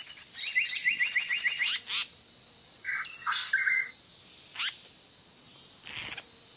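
Bird calls: a fast run of evenly repeated chirps, about ten a second, for the first two seconds, then a few short scattered calls and single quick rising notes.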